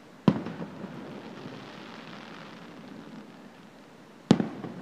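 Aerial fireworks: two sharp booms about four seconds apart, each followed by a rolling echo through the gorge.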